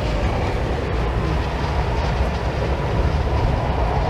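SJ EuroNight sleeper train running along the line: a steady rolling rumble of wheels on rail and the moving carriage, even throughout.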